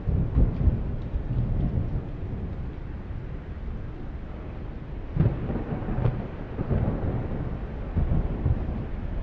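Thunderstorm: low, rumbling thunder over steady rain, swelling in several irregular rolls.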